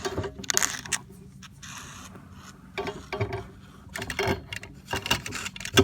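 Irregular bursts of scraping and rubbing from a pole being worked inside a wall cavity to reach a trapped baby bird.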